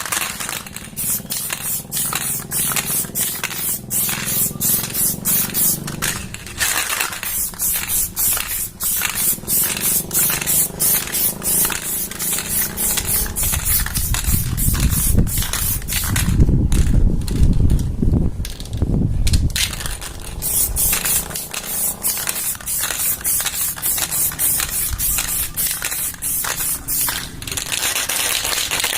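Aerosol spray can of heat-resistant flat black paint hissing in short bursts in quick succession, a few a second. A few seconds past the middle the spraying pauses while a low rumble takes over, then the bursts start again.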